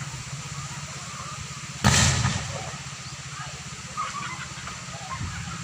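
A single sharp bang about two seconds in, trailing off briefly, from the power lines around an electricity pole in strong wind. It plays over steady wind noise.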